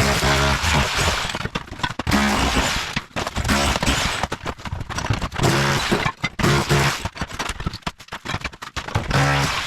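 Bosch Bulldog Max SDS-Plus rotary hammer with a tile chisel bit hammering in several bursts with short pauses, breaking up ceramic floor tile and cement board, with cracking and scraping of the broken pieces.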